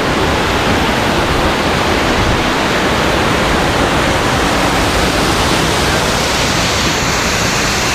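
Waterfall crashing close by: a loud, steady rush of falling water.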